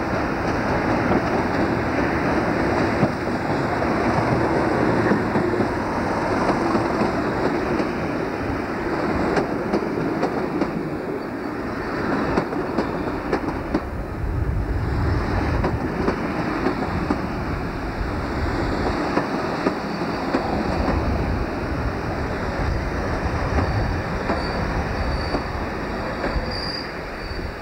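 Class 37 diesel locomotive, with its English Electric V12 engine, running in along the platform hauling a train of coaches, followed by the coaches rolling past with wheels clattering over the rail joints. A thin, high brake squeal comes in near the end as the train slows to a stop.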